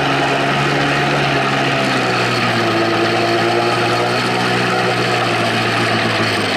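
1993 Evinrude 25 outboard, built up toward 35 hp with a bigger intake, freshly started and running steadily at idle.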